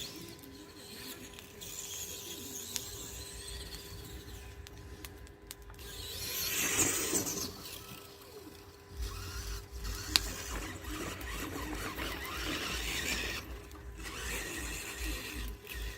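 Electric RC monster truck's drivetrain squealing and whining as it drives, swelling loudest about six to seven seconds in.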